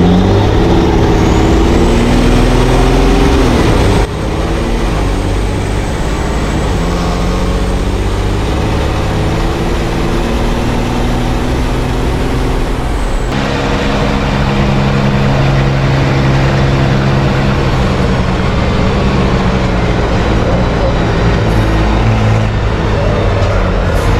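Racing truck's diesel engine running hard, its pitch climbing and dropping with revs and gear changes. The sound changes abruptly about four seconds in and again about thirteen seconds in.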